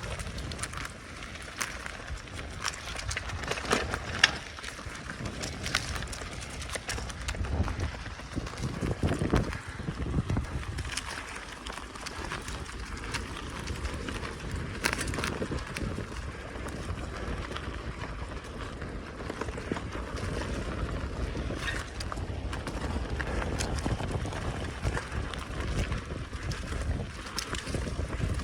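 Bicycle being ridden over a rough forest track: tyres rumbling over the ground, with frequent small knocks and rattles from the bike as it bumps along, and wind buffeting the microphone.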